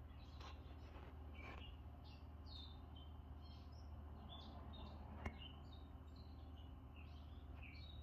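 Faint bird chirps, many short calls over a low steady hum, with a single sharp click about five seconds in.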